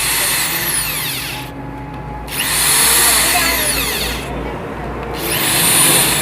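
Handheld power driver tightening the clutch spring bolts on a motorcycle engine, run in three short bursts whose whine rises and falls as the motor speeds up and slows.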